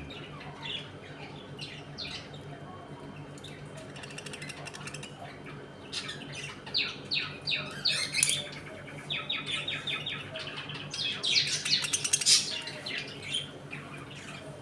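A flock of budgerigars chirping and chattering, sparse at first, then a busy run of quick overlapping chirps and rapid warbling through the middle and latter part, loudest near the end.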